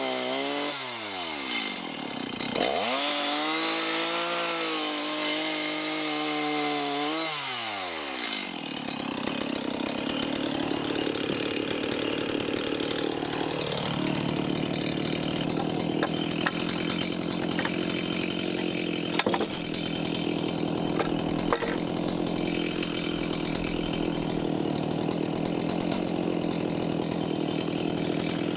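Chainsaw engine revving: its pitch dips about a second in, climbs back and holds, then drops around eight seconds in. After that it runs as a steady, rougher sound, cutting into a large wooden timber, with a few sharp knocks.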